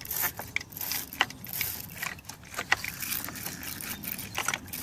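A wire battery-terminal cleaning brush scrubbing the inside of a car's positive battery cable clamp, metal bristles rasping on lead in irregular strokes with sharp clicks as the tool is worked.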